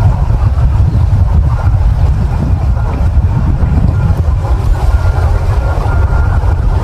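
Wind buffeting the microphone: a loud, steady, rough low rumble with little higher sound above it.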